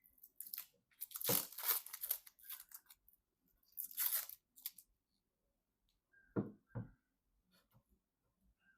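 Packaging being torn or peeled open in two spells of tearing, followed by two short knocks.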